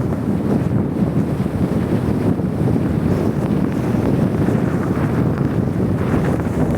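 Storm wind blowing hard against the microphone: a loud, steady rushing rumble.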